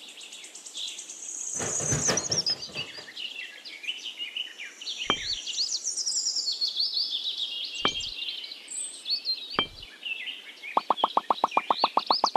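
Small birds chirping and calling steadily, with three short knocks about five, eight and nine and a half seconds in. Near the end a fast, even pulsing tone begins.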